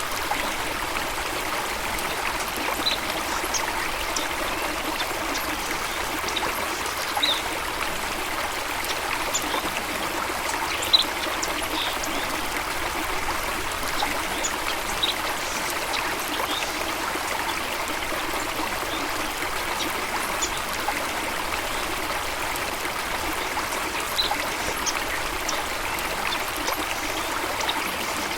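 Running water splashing steadily, with short, high bird chirps scattered through it.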